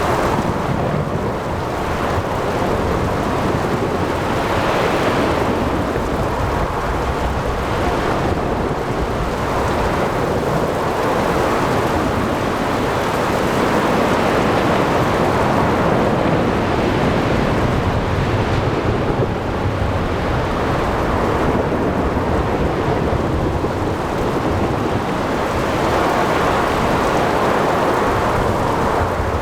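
Thunderstorm at sea: steady heavy rain and wind with thunder rumbling underneath and waves breaking. The noise swells and falls every few seconds.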